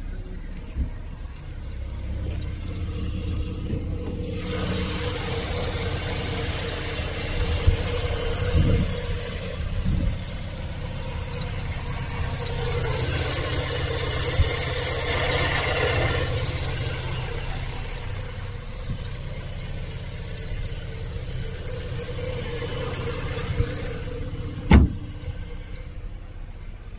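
BMW E46 Compact 316ti's 1.8-litre four-cylinder engine running steadily. A hiss comes in about four seconds in and fades out before the end, and a single sharp knock sounds near the end.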